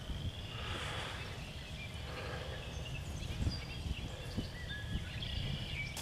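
Open-air ambience: a steady low rumble with faint, scattered bird chirps.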